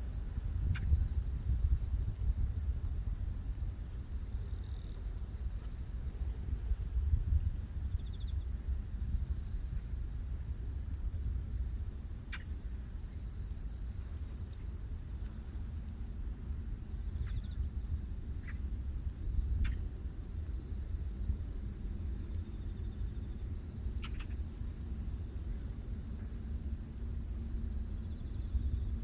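Night insects (crickets and other grass insects) chirping: a steady high trill, with a second insect's pulsed chirp repeating about once a second, over a low rumble.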